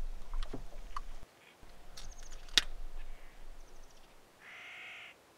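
Several sharp clicks and knocks, then a short bird call near the end, over a low rumble.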